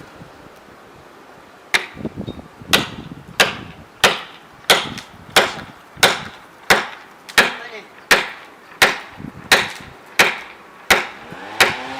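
Repeated heavy tool blows on wood, evenly spaced at about three every two seconds, starting about two seconds in and going on steadily, each a sharp crack with a short ring.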